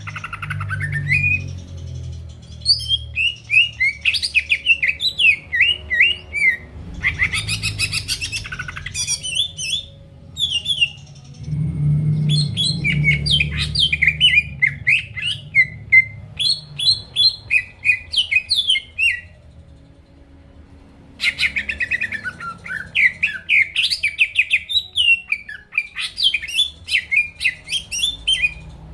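Cucak ijo (green leafbird) singing in full, continuous song: fast runs of rising and falling whistled and chirped notes in quick phrases, with a pause of about two seconds around two-thirds through before the song resumes.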